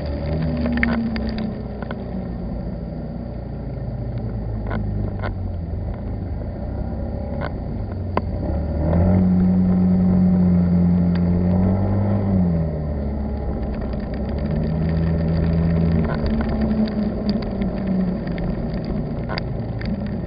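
Car engine running while driving, its pitch rising and falling as it changes speed and loudest in the middle, over steady road noise with scattered sharp ticks.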